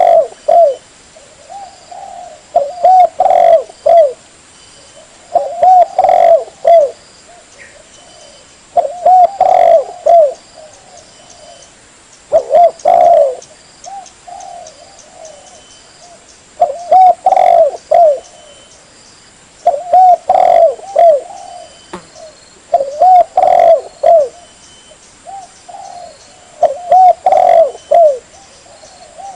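Spotted dove (tekukur) cooing: short phrases of several coos, repeated about every three to four seconds.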